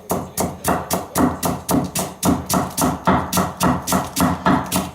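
An N690 stainless kitchen knife is shredding cabbage on a wooden cutting board. It makes a fast, even run of knocks, about four a second, as the blade meets the board with each slice.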